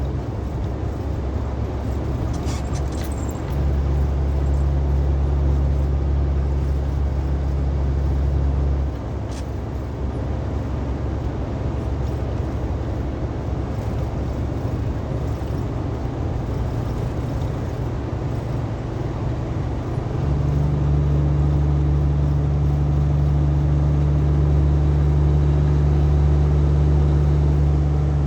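Truck engine running steadily while driving, a low drone over road noise that grows louder a few seconds in, eases off about a third of the way through, and swells again for the last third.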